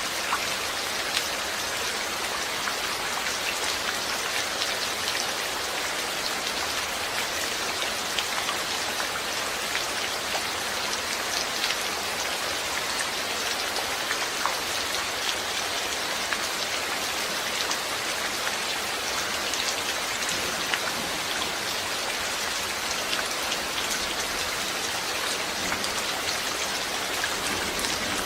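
Steady rain falling, with many small drops ticking sharply on a surface over an even hiss.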